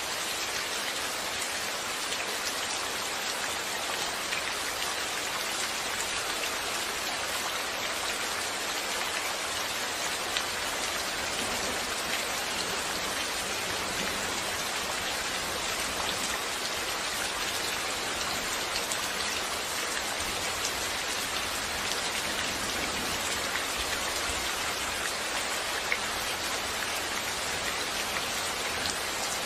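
Steady rain falling, with individual drops ticking on a hard surface.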